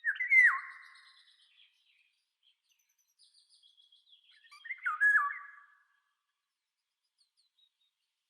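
Bird calls: two loud whistled calls, one at the start and one about five seconds in, each made of notes that drop sharply in pitch, with fainter high chirps between them.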